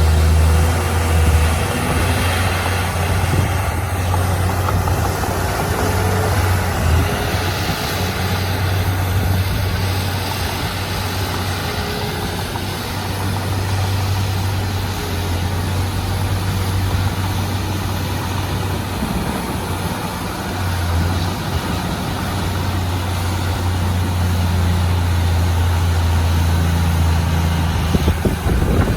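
Heavy diesel engine of earthmoving machinery running steadily with a deep drone that wavers a little in level.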